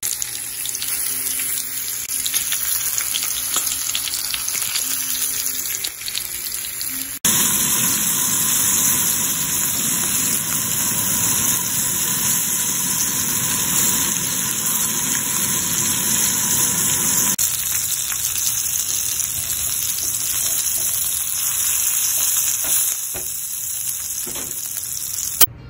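Pork tenderloin searing in oil and butter in a ridged grill pan: a steady sizzle of frying. The sizzle jumps louder about seven seconds in, and near the end sliced onions are sizzling in the pan.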